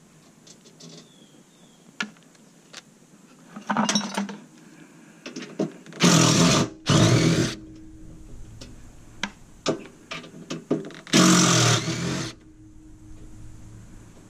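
Power drill/driver run in three short bursts, two back to back midway and a longer one near the end, taking out screws to remove the steamer's door. Scattered clicks and clinks of metal parts being handled come in between.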